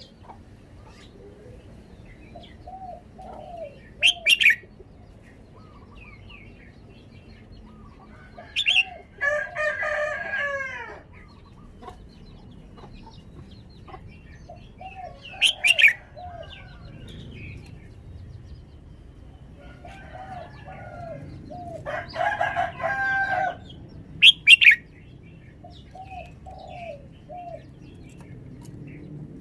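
Red-whiskered bulbul singing: short sharp whistled calls four times, with two longer warbling song phrases about nine seconds in and again about twenty-two seconds in, and soft short notes between.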